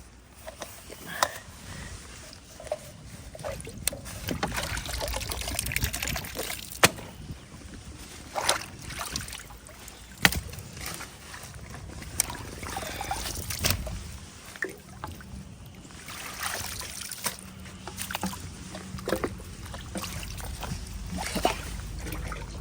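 Hands reaching into the water of a clogged culvert and pulling out sticks and debris: irregular sloshing and splashing with scattered sharp knocks and clicks.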